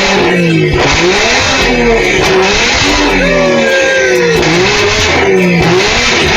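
Car engine being revved hard and repeatedly, its pitch rising and falling about once a second, very loud.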